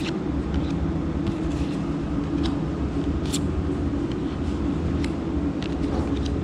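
Steady low background hum, with a few faint light clicks and rustles of trading cards being handled.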